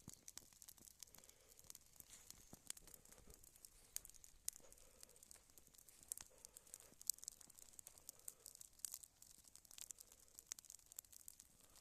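Faint, irregular crackling and snapping of a small campfire of wet weeds smouldering in the rain, with scattered sharp pops throughout.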